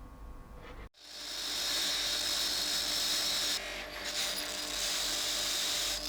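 A small power tool running steadily against a metal part, a continuous high hiss that starts suddenly about a second in and dips briefly near the middle.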